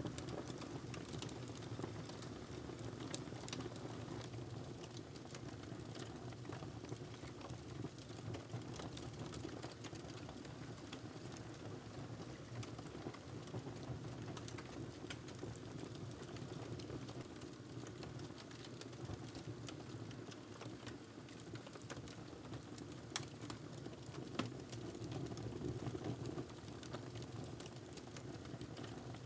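Wood fire burning in a fireplace: a steady low rumble with scattered irregular crackles throughout and two louder pops near the end.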